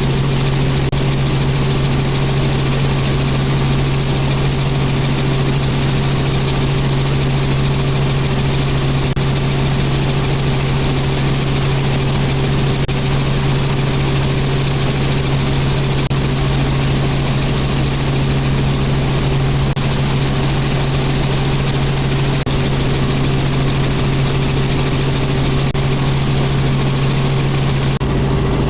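Robinson R44 helicopter in flight: the steady drone of its rotors and six-cylinder Lycoming piston engine, with a strong constant low hum. The tone shifts slightly near the end.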